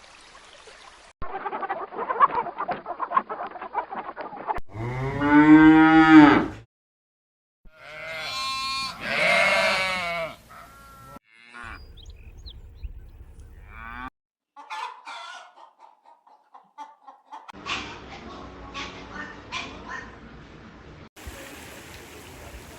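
A string of short animal-call clips cut one after another, among them farm-animal calls; the loudest is a long, pitched call that rises and falls, about five seconds in, followed by another long call.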